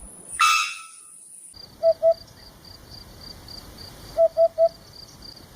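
A bird gives short pitched notes in quick groups, two and then three, over a steady chirping of about four pulses a second, like crickets. A loud, brief, harsh sound falls in pitch about half a second in.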